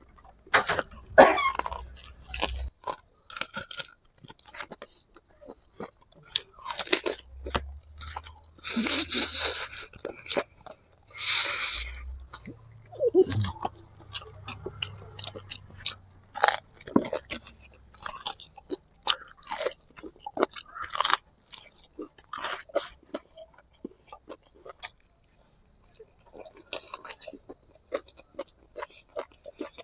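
Close-miked chewing and biting on spicy braised pig feet (pork trotters): wet smacks and crunchy clicks of skin, gristle and bone, with two longer noisy stretches about nine and twelve seconds in.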